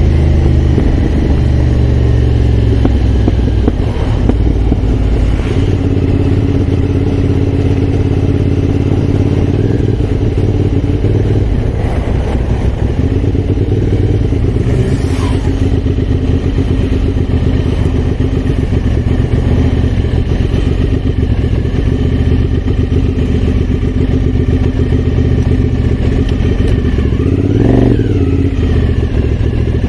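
Aprilia Shiver's V-twin engine running as the motorcycle is ridden, the exhaust note steady with the revs shifting now and then and a short rise in revs near the end.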